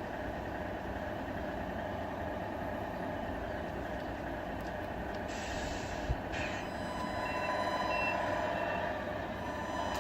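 Tamiya RC truck's electronic sound unit playing a steady truck engine drone. About seven seconds in, three short reversing beeps sound, one click comes just before them, and the drone grows slightly louder near the end.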